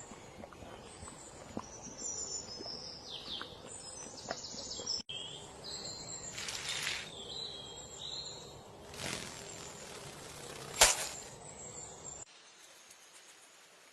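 Small birds chirping and calling, with short high twitters and falling whistles over a steady outdoor background hiss. There are two brief swells of noise in the middle and one sharp click near the end, which is the loudest sound.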